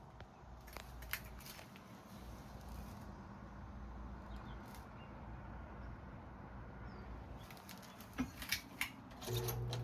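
Clicks and knocks of a Dayton 20-inch box fan being handled and switched, then near the end its electric motor switches on with a steady hum.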